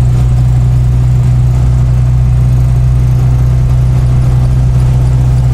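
Hindustan Motors Ambassador's HM Stride diesel engine running at a steady pitch, a loud, even drone with no change in revs.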